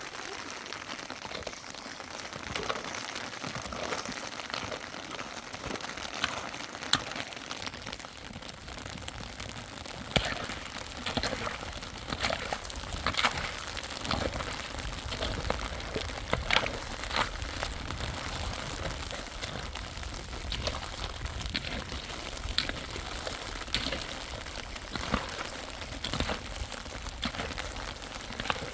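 Steady rain falling, with irregular sharp taps and knocks scattered through it.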